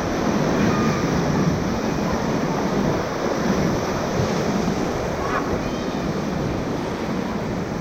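Whitewater rapids rushing steadily around a raft, with wind noise on the microphone.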